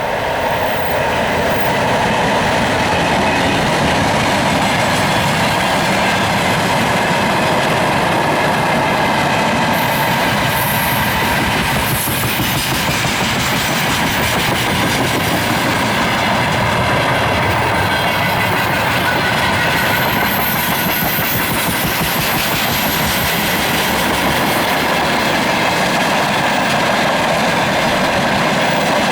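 Freight train rolling past at speed, its wagons' wheels clattering over the rail joints in a loud, steady rumble.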